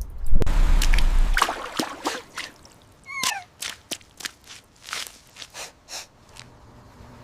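A loud rush of splashing water with a low rumble, then scattered drips and steps. About three seconds in comes a short wavering cry that falls in pitch.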